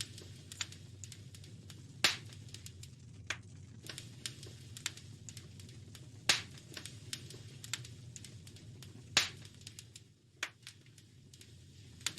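Wood fire crackling in a fireplace: a steady run of small pops, with louder snaps about two, six and nine seconds in, over a low steady rumble.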